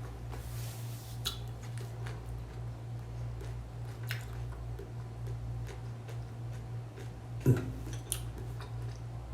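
Close-up eating sounds from a plate of nasi campur: small irregular clicks, ticks and wet smacks of food being picked up and chewed, over a steady low hum. About seven and a half seconds in comes one louder knock, like the plate or a utensil being set down.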